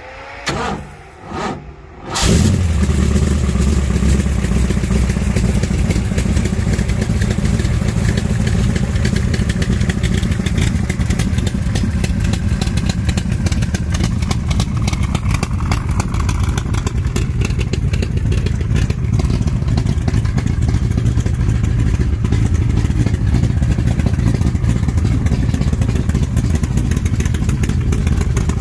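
A Shelby Cobra's V8 being started cold: two short bursts of cranking, then it catches about two seconds in and runs loud and steady at a fast cold idle through its side-exit exhaust pipes.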